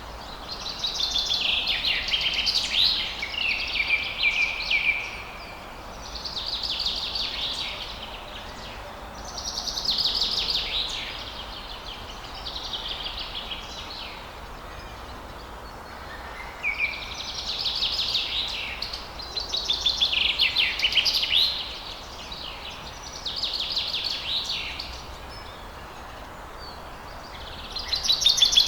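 Songbirds singing at dawn in repeated phrases of one to three seconds, high-pitched and rapidly trilled, with short gaps between them, over a steady background hiss.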